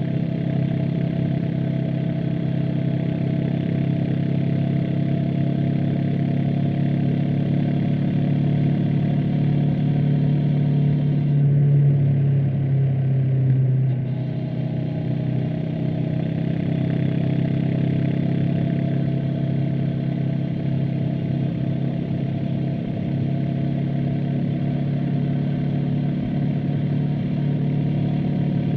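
Honda CB500X's parallel-twin engine and exhaust running under way. The engine note swells for a couple of seconds near the middle, drops off suddenly, then climbs again.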